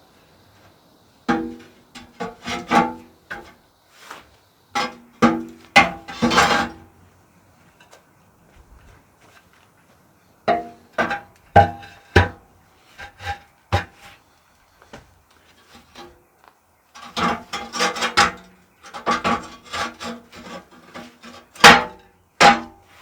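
Metal parts knocking and clanking together in irregular clusters, each knock ringing briefly at several pitches, with short pauses between the clusters.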